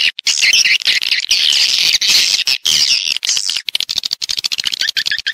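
Edible-nest swiftlets twittering in a dense, rapid chatter of buzzy calls, as played in a lure track used to draw swiftlets into a bird house. Near the end a regular run of short, evenly spaced chirps joins in.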